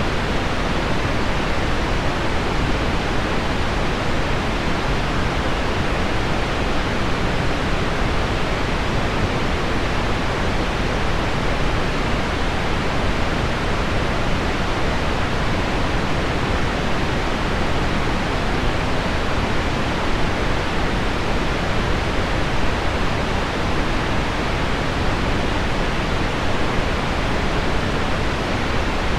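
Steady pink noise layered with heavy rain on window glass: an even, unbroken hiss weighted toward the low end, with no separate drops or changes standing out.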